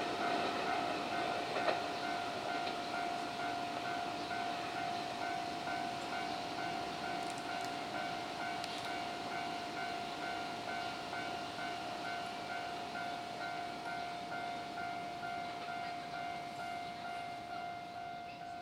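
Level-crossing warning bell ringing in a quick, steady, repeating beat, over the noise of a Keio Line electric train that fades away as it passes.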